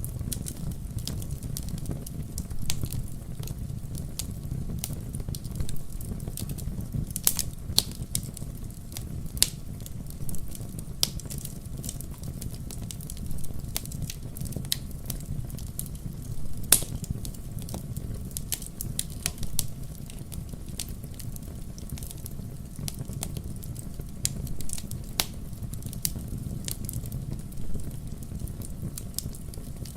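Wood fire in a fireplace crackling, with a steady low rumble of the flames and irregular sharp pops and snaps, one of the loudest about halfway through.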